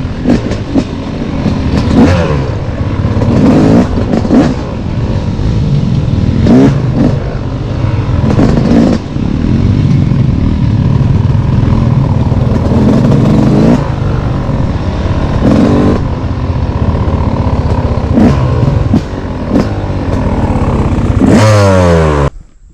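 Dirt bike engine revving up and down over and over while riding a trail, rising and falling in pitch. Near the end it winds down in pitch and drops away suddenly.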